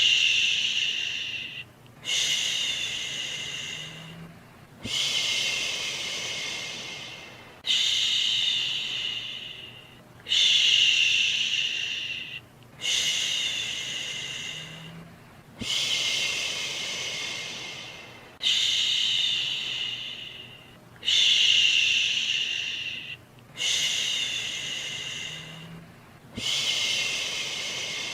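A human voice shushing 'shhh' over and over as a baby-soothing sound, about one long shush every two and a half to three seconds, each starting loud and fading out.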